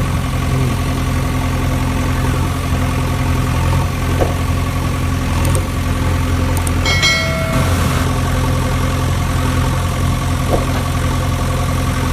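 Steady low engine idling hum, with a short horn beep about seven seconds in.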